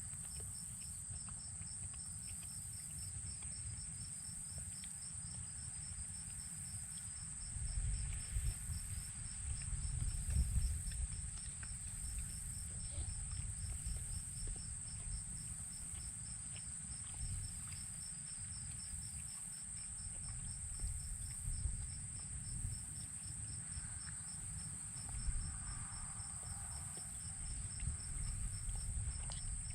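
Insects calling steadily: one continuous high trill with an evenly pulsed chirping, about three pulses a second, beneath it. Low, irregular rumbling and knocks, loudest about eight to eleven seconds in.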